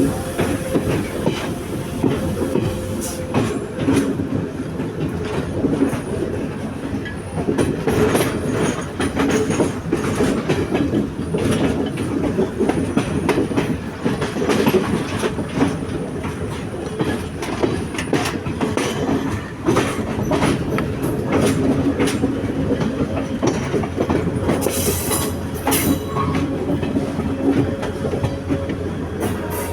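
A train running along the track: a steady rumble with repeated clicking and clacking of wheels over rail joints. A brief high screech of wheels on rail comes about three-quarters of the way through.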